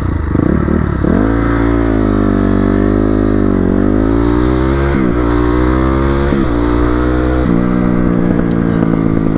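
Dirt bike engine being ridden, its pitch rising and falling with the throttle. The pitch drops sharply about a second in, dips briefly twice later on, and settles lower and steadier near the end.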